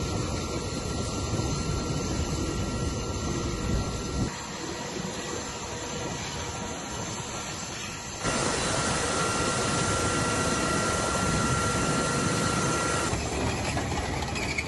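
Mi-26 heavy-lift helicopter's twin turboshaft engines and rotor running: a steady loud rush of noise, with a steady high turbine whine in the middle stretch. The sound changes abruptly about four and eight seconds in and again near the end.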